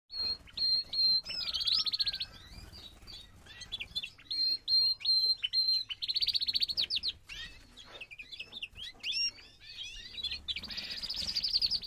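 Birds singing: clear high whistled notes and quick chirps, broken by a rapid trill about every four to five seconds.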